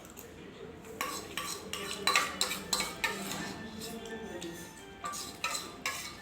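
Metal spoons and utensils clinking and scraping against metal dishes and pots: a quick series of sharp clinks starting about a second in, coming in clusters.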